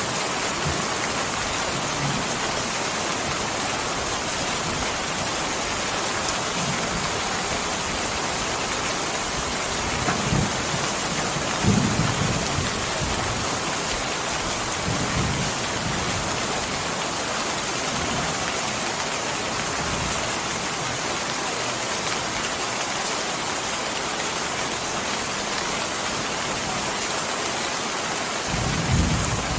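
Steady, dense rain falling, an even hiss. A few brief low rumbles rise over it, about ten and twelve seconds in, again near fifteen seconds and near the end.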